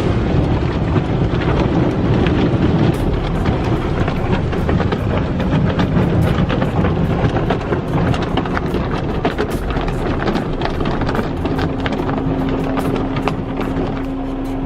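Automatic car wash going over the car, heard from inside the cabin: a loud, steady rush of water spray and wash equipment on the body, with many small ticks and slaps. A low steady hum joins about halfway through.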